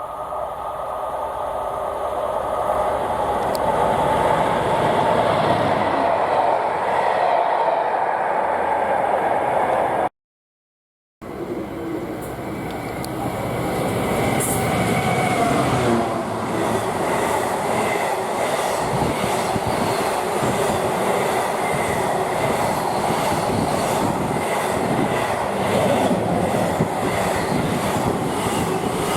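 A train running past, growing louder over the first few seconds as it approaches. After a brief cut, another train passes with a steady rumble and a regular rhythmic clatter of wheels over the rail joints.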